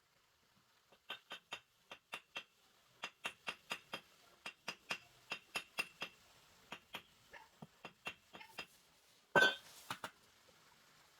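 A quick, uneven run of light, ringing clinks, about three a second, like a hard tool tapping on something hard, then a short louder scrape.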